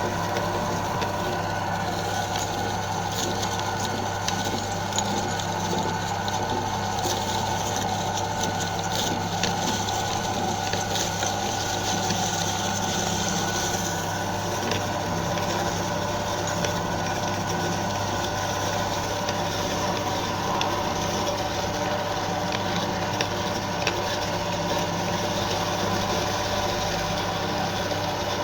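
Electric meat grinder's motor running with a steady hum, with faint scattered crackles.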